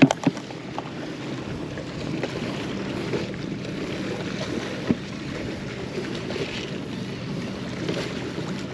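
Steady outdoor wind and water noise on the microphone, with a faint low motor hum underneath, typical of a boat. A sharp knock right at the start and another brief one about five seconds in.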